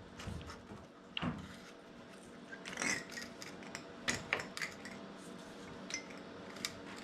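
Scattered light metallic clinks and knocks of tools or car parts being handled, irregular, with a cluster of sharper clanks about three to four seconds in.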